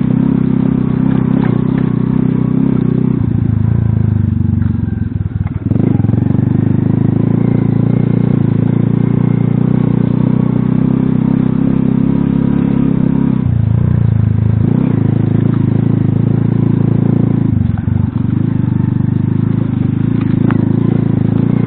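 Alpha moped-type motorcycle engine running under load while riding, its note stepping up and briefly dropping away a few times, as with throttle changes and gear shifts.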